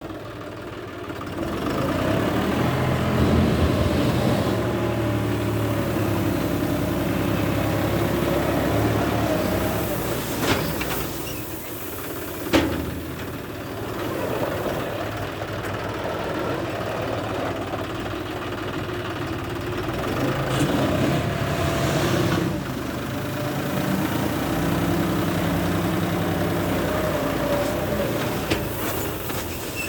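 John Deere 5210 tractor's diesel engine working a dozer blade, its speed rising and falling in long swells, with a couple of sharp clanks near the middle.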